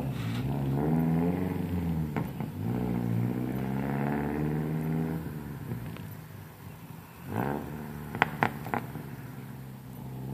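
Race-prepared Toyota Camry accelerating away down the street: the engine note climbs, drops about two seconds in at a gear change, climbs again, then fades into the distance. A brief swell follows near seven seconds, then a few sharp cracks.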